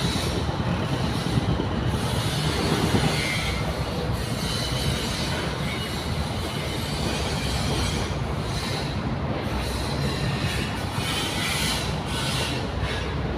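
Heavy diesel machinery running steadily: a continuous low rumble with rattling noise and a thin high whine over it.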